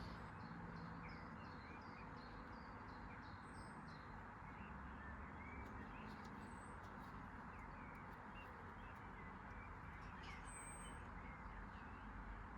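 Faint small-bird chirps, short and repeated, over a steady low background hiss.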